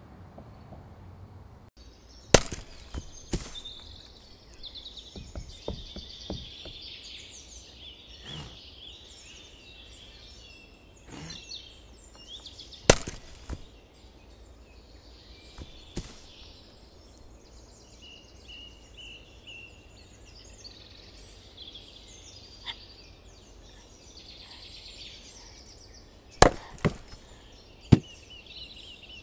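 Axe blows chopping into wood, sharp single strikes at irregular intervals with several loud ones and a quick run of three near the end. Behind them is a steady background of birdsong that comes in about two seconds in.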